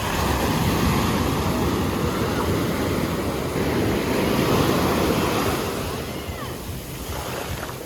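Sea waves breaking and washing on a beach, a dense rushing that swells and ebbs, with wind buffeting the microphone.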